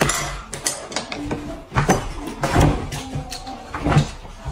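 A run of irregular knocks and clatters, like household objects being handled or struck, with louder thumps about two seconds in, again a little later, and near the end.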